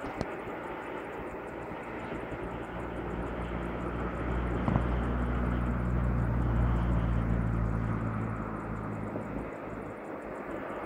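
Steady outdoor background noise, with the low hum of a passing engine that swells about three seconds in and fades away a few seconds before the end. A short click about five seconds in.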